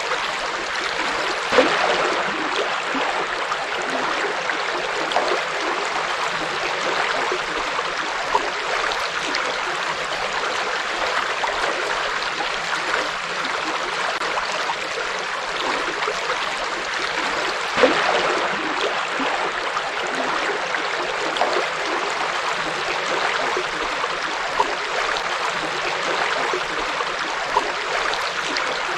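River water flowing over rocks, a steady rushing and babbling with small splashes now and then.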